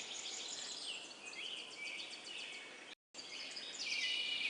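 Background birdsong: many small birds chirping and twittering in high, short calls, cutting out for a split second about three seconds in.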